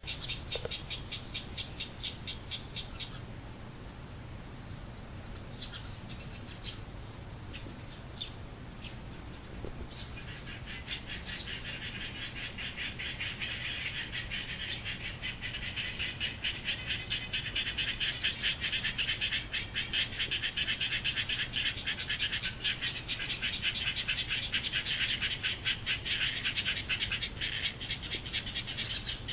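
Frogs calling in a chorus of rapid pulsed trills: a short trill at the start, scattered calls, then a dense, continuous trill that builds from about a third of the way in and stays loud to the end.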